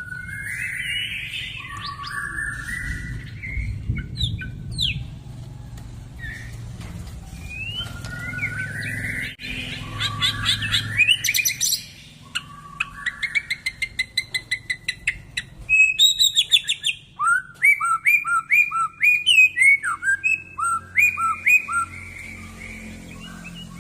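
White-rumped shama (murai batu) singing a long, varied song of rising and falling whistles. Fast stuttering trills come in the middle, then a run of short, sharp, repeated rising notes near the end.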